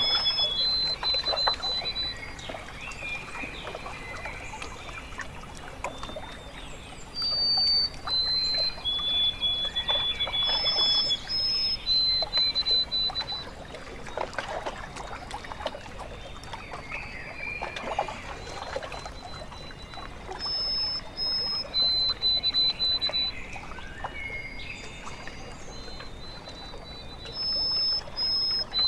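Water lapping and trickling along a lake shore, with a bird singing long, steady whistled notes that step between a few different pitches, repeated throughout.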